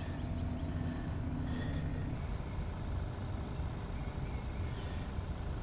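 Steady low hum of a boat motor running at trolling speed.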